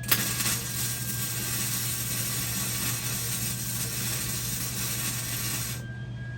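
Electric welding arc striking with a sharp crack, running steadily as a dense hiss while a weld is laid, then cutting off abruptly just before the end.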